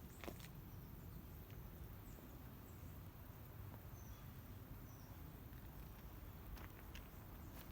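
Near silence: a faint low rumble of background noise, with a few soft clicks about a third of a second in and again near the end.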